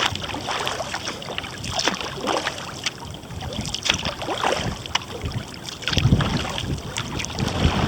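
Kayak paddle dipping and splashing in the water, with drips between strokes. Gusts of wind buffet the microphone, strongest about six seconds in and again near the end.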